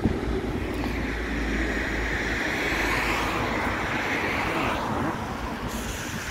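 Five-car Irish Rail InterCity Railcar diesel train running away over a rail bridge: a low rumble that eases off, then a steady rushing noise that swells midway and drops off about five seconds in.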